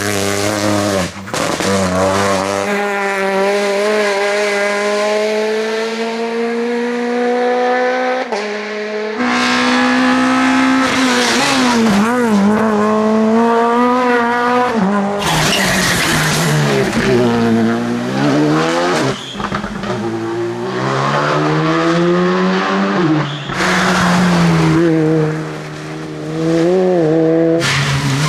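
Rally car engines at full throttle on a special stage, several cars one after another. In one pass the engine note climbs steadily for several seconds, and in others the pitch dips and rises repeatedly as the driver lifts, brakes and accelerates through corners.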